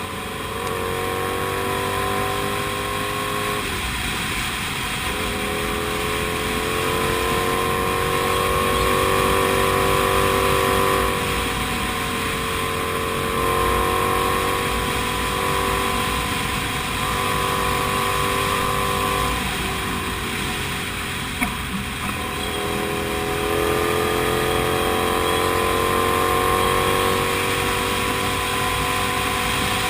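Comet GTR250 motorcycle's 250 cc V-twin engine under way, its pitch climbing and then dropping back several times as the rider changes gear. One short sharp knock about two-thirds of the way through.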